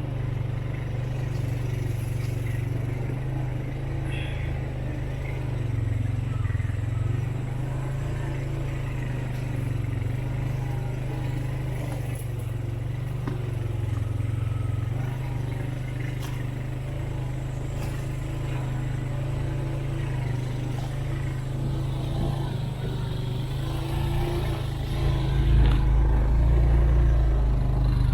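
Off-road vehicle's engine running steadily while driving a rough woodland trail, with light rattles and knocks from the vehicle; it grows louder for a few seconds near the end.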